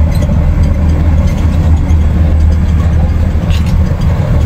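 Loud, steady low rumble with a hiss over it, heard from aboard the Sky Capsule, a small elevated rail car.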